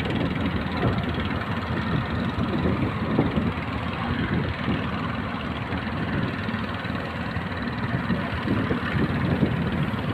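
Engine of a sardine fishing boat running steadily at sea, with the noise of wind and rough water mixed in.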